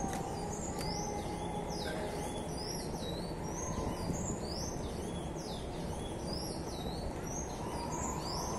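Small birds chirping, a rapid series of short high-pitched notes, two or three a second, over steady low background noise.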